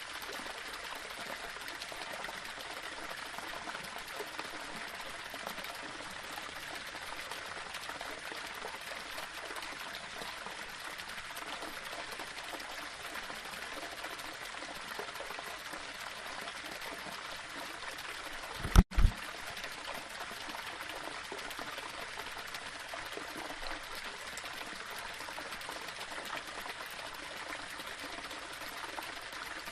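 Small waterfall splashing steadily over rocks. A little past the middle, the sound drops out for an instant and a brief, loud low thump cuts in, then the water goes on as before.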